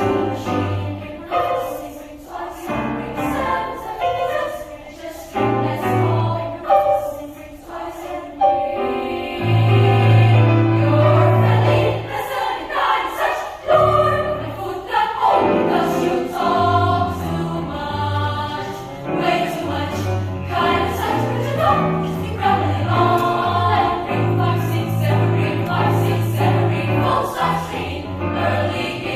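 Children's choir singing a choral piece, with sustained low notes underneath.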